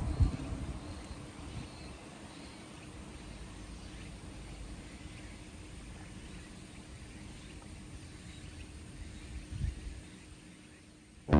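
A passing car fades away over the first couple of seconds, leaving faint outdoor ambience with a low rumble. There is a short low thump near the end.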